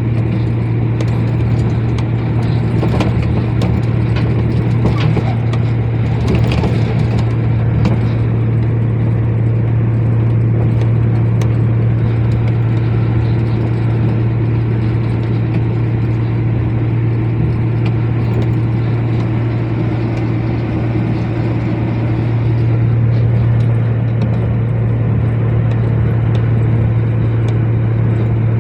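Heavy truck engine running steadily while driving, a constant low drone with road noise that holds level throughout.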